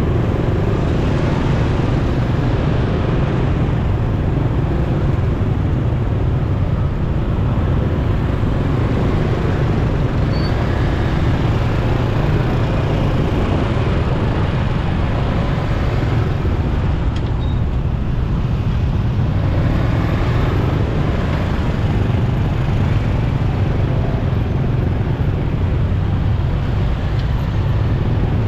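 Motorcycle riding through city traffic: steady engine and road noise with a heavy, continuous low rumble and surrounding traffic.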